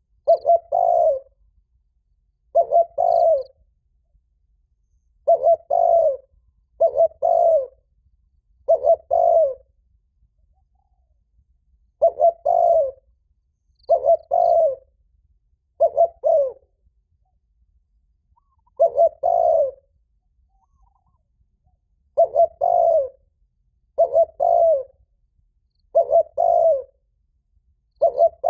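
Spotted dove cooing loudly in short two-part phrases, repeated about every two seconds: the 'thúc' challenge call given to provoke a rival to fight.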